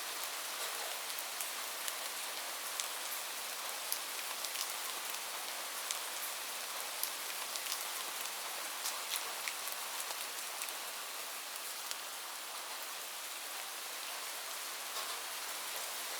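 Steady rain falling: a dense, even hiss with scattered sharp ticks of individual drops striking a surface.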